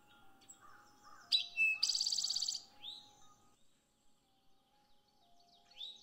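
Eastern towhee singing its 'drink-your-tea' song: two sharp introductory notes about a second in, followed by a fast ringing trill, which is the loudest part. Another song begins near the end.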